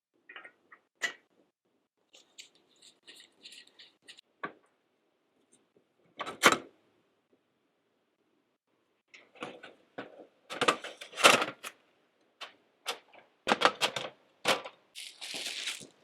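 Intermittent knocks, clacks and rustling of things being handled. Sparse at first, then a busy run of knocks near the end, with about a second of rustling among them.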